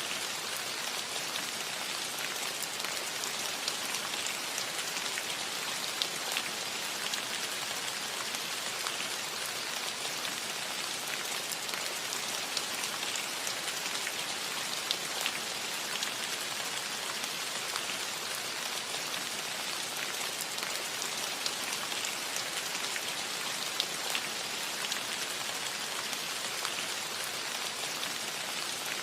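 Steady rain falling on a metal roof, an even hiss with many small drop taps scattered through it.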